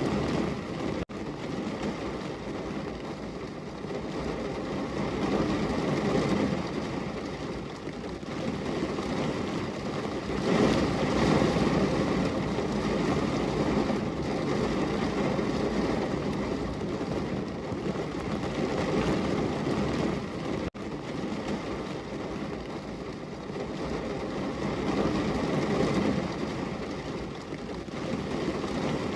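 Heavy rain pouring on a window, a steady rushing noise that swells and eases every few seconds, with two momentary dropouts, one about a second in and one about two-thirds of the way through.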